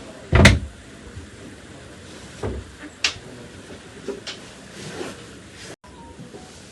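A loud thump about half a second in, then several lighter knocks and clicks, like things being handled or closed, over a steady background hum; the sound cuts out for a moment near the end.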